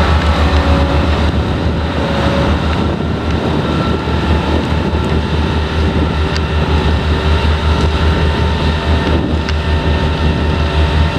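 Heavy diesel potato-harvesting machinery running steadily: a loud engine with a deep, even throb under a dense mechanical noise.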